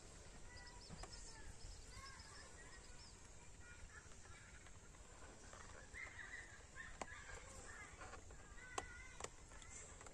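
Near silence: faint outdoor ambience with small birds chirping now and then, and a few faint clicks.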